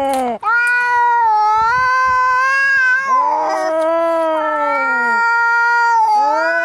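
Cats caterwauling in a fight: long, drawn-out yowls about two to three seconds each, one after another, the pitch swelling and sagging, with a second voice overlapping now and then.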